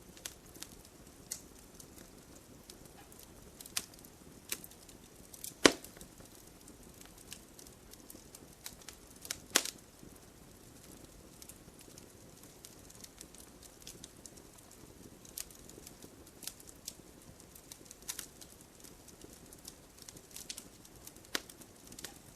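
Campfire crackling: wood popping in irregular sharp snaps over a low steady hiss. Two louder pops come about 5½ and 9½ seconds in.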